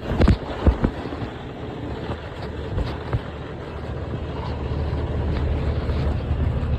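Diesel tractor engine running steadily, with a few sharp metallic knocks in the first second and two more about three seconds in. The engine grows louder about halfway through, as if being throttled up under load.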